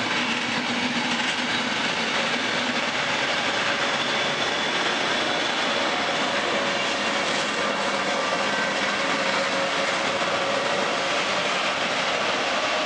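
Coaches of a Trenitalia electric passenger train rolling past along the platform: a steady rumble of wheels on rail, with a few thin whining tones held over it.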